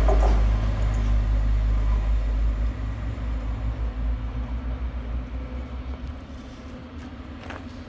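TransPennine Express diesel train pulling away into a tunnel: a low engine drone that fades steadily as the train recedes.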